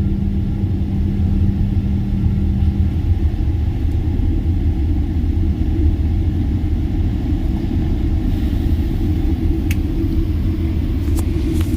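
Steady low rumble of a moving vehicle heard from inside it, with a low hum that fades out about three seconds in.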